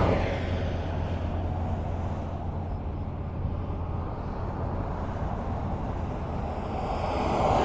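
Highway traffic: a vehicle passes by at the start and fades away, leaving a steady low road rumble with a low hum, then the next vehicle approaches, growing louder near the end.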